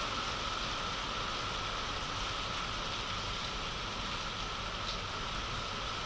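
Heavy rain falling steadily: a continuous, even hiss of rain with a low rumble underneath.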